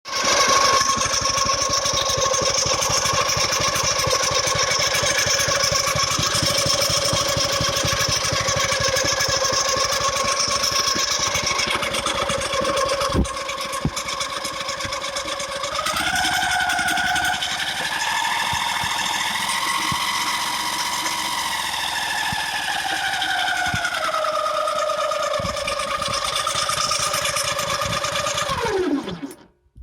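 A loud, steady whistling whine with several overtones over a fast rattle. About halfway through it rises in pitch, holds, and eases back down, then near the end it slides steeply down in pitch and stops.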